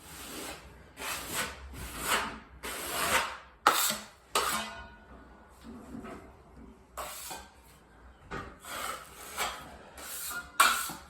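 Drywall taping knife scraping across wet joint compound and fiberglass tape on a drywall patch, about a dozen short strokes with a pause around the middle.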